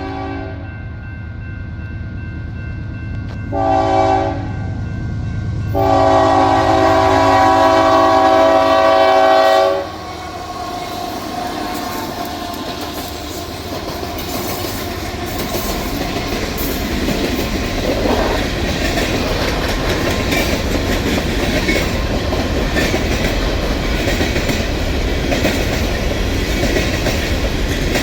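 Multi-chime locomotive air horn: a blast ending just as it begins, a short blast about four seconds in, then a long blast of about four seconds, the close of a grade-crossing horn signal. The train then rolls past with a steady rumble and rail clatter that builds toward the end.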